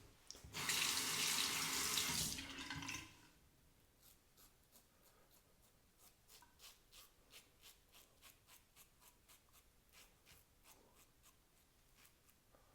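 Water tap running for about two and a half seconds as the razor is rinsed, then faint quick scraping strokes, about three a second, of a Leaf Thorn safety razor's Feather blade cutting stubble.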